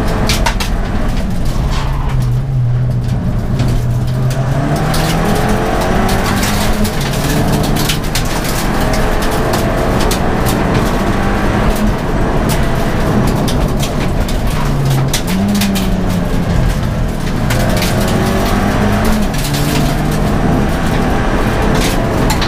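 Ford Fiesta ST race car's engine driven hard, heard from inside the stripped, roll-caged cabin: the revs climb and drop sharply again and again through the run, with short clicks and rattles over it.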